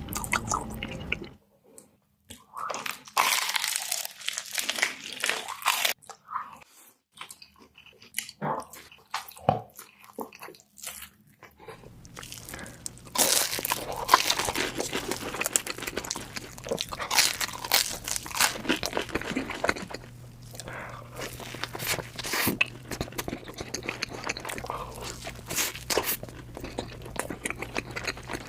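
Close-miked eating: irregular biting, crunching and wet chewing of food, with short pauses between mouthfuls.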